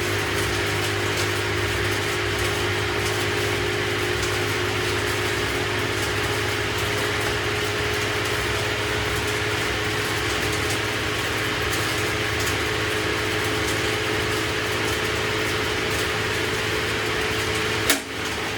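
LG WM6700HBA front-load washing machine running, a steady motor hum and whine over the noise of the drum. Near the end there is one sharp click, after which the low hum drops away.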